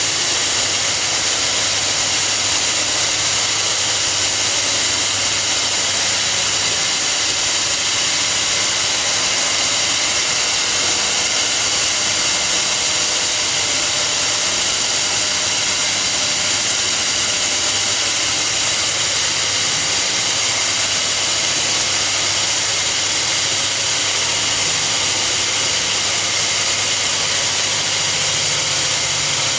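Electric core drilling machine running steadily as its core bit cuts an exhaust-fan hole, a loud, even whine and hiss with no change in pace.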